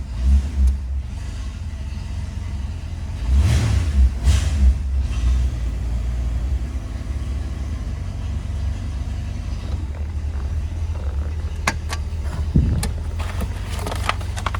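The 289 V8 of a 1966 Ford Mustang idling with a steady low rumble, swelling louder for a moment about four seconds in. A few sharp clicks and knocks come near the end.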